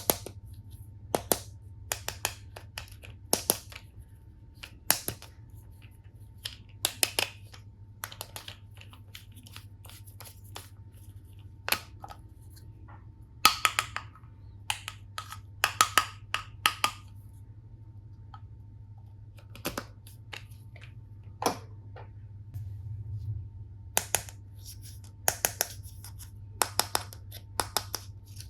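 Plastic toy tool pieces being handled: irregular sharp clicks and taps, some in quick clusters, over a faint steady low hum.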